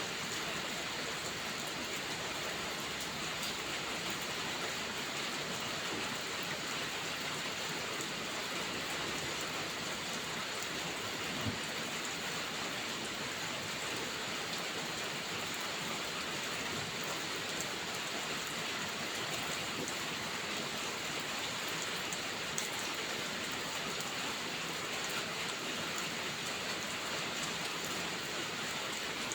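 Steady rainfall, an even unbroken hiss of rain, with a couple of brief single clicks, one near the middle and one a little later.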